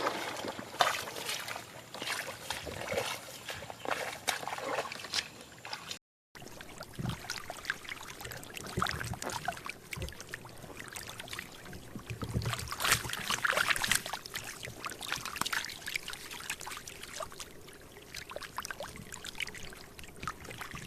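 Water splashing and sloshing, with scattered knocks and rustles.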